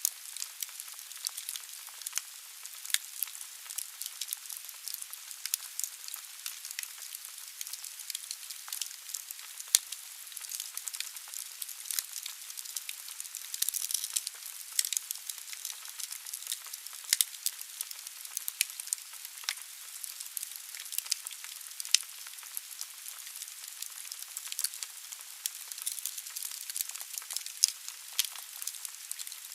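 Wood logs burning in a fireplace: a steady hiss with many sharp, irregular crackles and pops.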